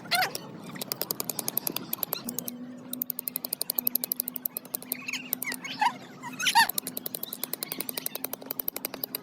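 Birds calling in short chirps over a fast, even clicking rhythm, with a low steady hum entering about two seconds in.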